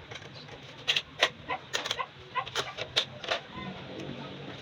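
A series of irregular sharp clicks and taps, about a dozen, the loudest about a second in and near three seconds in.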